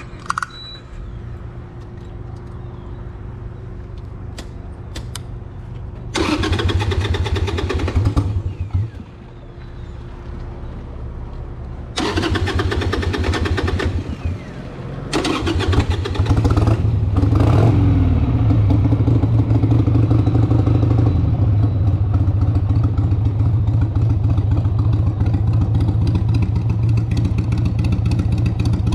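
1996 Harley-Davidson 883 Sportster's air-cooled V-twin engine running at low revs, revved twice in short bursts, then louder and steady from about halfway through as the motorcycle pulls away and rides on, with a rise and fall in pitch shortly after it sets off.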